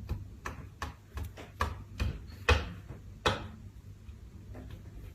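An irregular run of sharp taps and knocks, roughly two a second, the loudest two about two and a half and three and a quarter seconds in.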